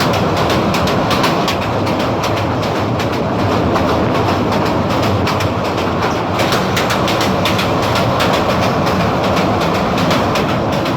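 Passenger train running at speed, heard from aboard: a steady loud rumble with rapid, irregular clattering of the wheels on the track.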